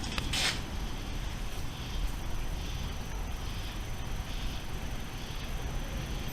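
Low, steady rumble of a thunderstorm heard from indoors, with a short sharp click just under half a second in.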